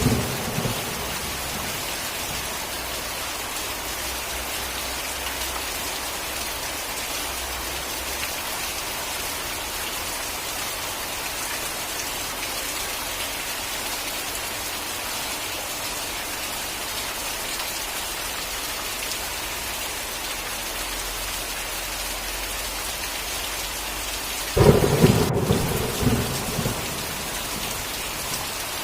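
Steady rain falling, with a thunderclap rumbling out in the first second and another loud clap of thunder near the end that rolls on for about two seconds.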